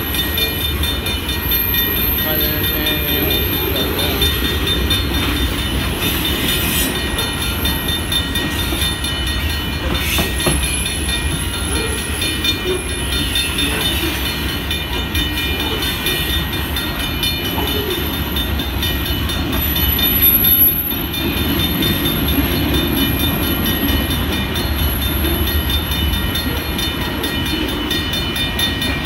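Freight train of boxcars rolling past: a steady, dense rumble of steel wheels on rail, with thin high-pitched squealing tones held above it and a brief swell in loudness about two-thirds of the way through.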